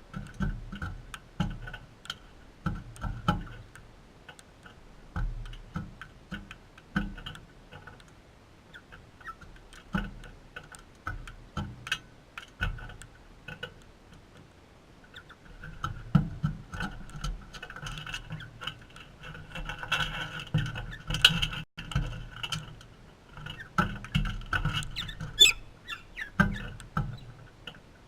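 Galahs pecking: a run of irregular clicks and taps that grows busier and louder in the second half.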